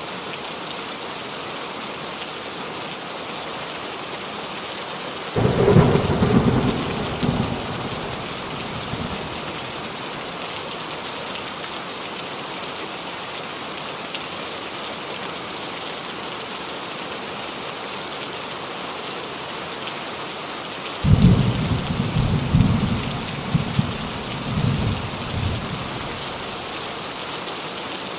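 Steady heavy rain drumming on a roof. Thunder breaks in twice: a sudden rumble about five seconds in that dies away over a few seconds, then a longer, rolling rumble about twenty seconds in.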